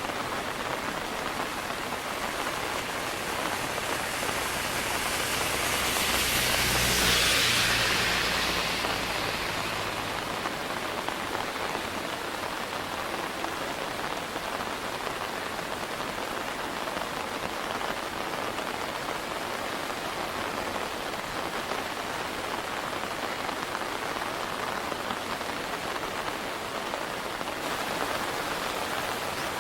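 Steady hiss of rain and fast-flowing, flood-swollen river water. It swells louder for a few seconds about seven seconds in, then settles back.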